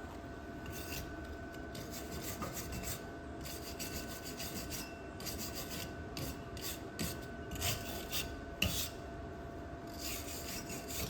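A wire brush scrubbing steel in irregular strokes, cleaning up a fresh weld, with a couple of sharper scrapes about eight and nine seconds in.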